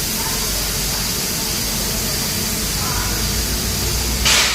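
A steady hiss with faint distant voices under it, and a short, sharper burst of hiss near the end.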